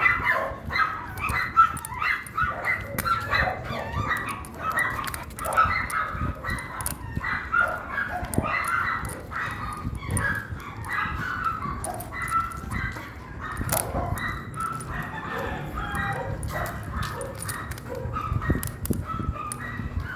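Dog barking and yipping over and over, short barks following one another in quick succession.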